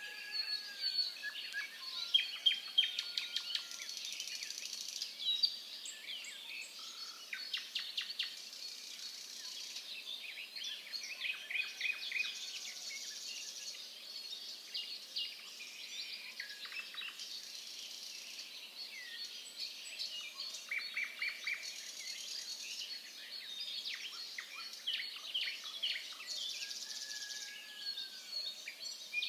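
Forest birds calling throughout: many overlapping chirps, short whistles and rapid trills from several birds.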